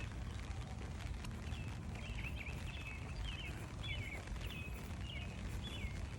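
Songbirds singing in the rain: a run of short, quick sweeping chirps and whistled notes, starting about a second and a half in and repeating, over a steady hiss of falling rain.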